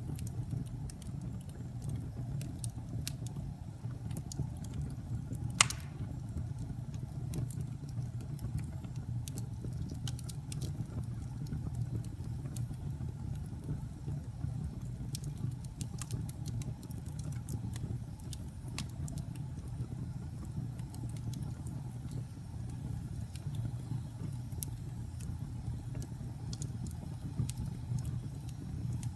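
Wood fire burning in a fireplace: a steady low rumble of flames with scattered small crackles and one loud sharp pop about five and a half seconds in.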